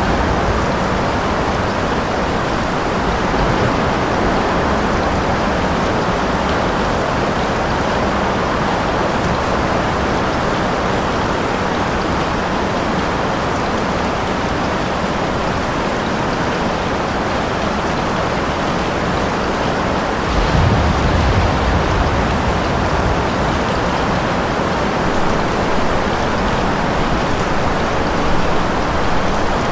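Steady, heavy rain with no letup. About two-thirds of the way through, a brief low rumble of thunder rises under it.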